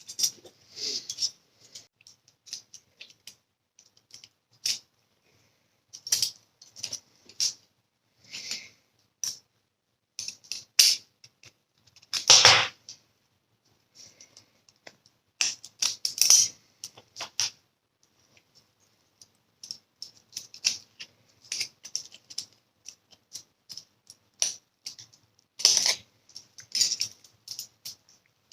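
Irregular light metallic clicks, taps and short scrapes from handwork on small steel parts, with a louder, longer scrape about halfway through.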